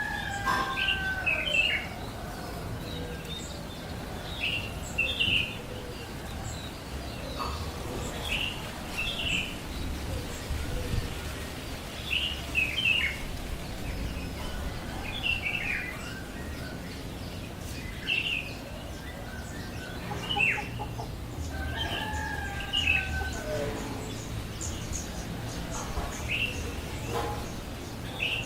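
Birds chirping: short high downward chirps repeating every second or two, with a longer, lower drawn-out call just after the start and another about two-thirds of the way through.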